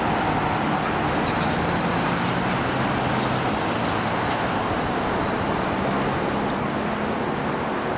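Steady road traffic noise with vehicle engines running; no siren is heard.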